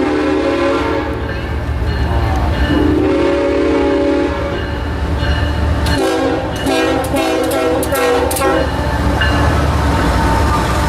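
Locomotive air horn sounding over the steady rumble of a moving train: two blasts of about a second and a half each, then a longer multi-note chord about six seconds in.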